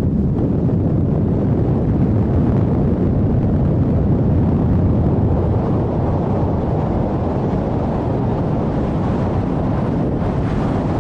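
Steady heavy wind buffeting the microphone aboard a fast-moving sailing boat, a dense low rush with no distinct events.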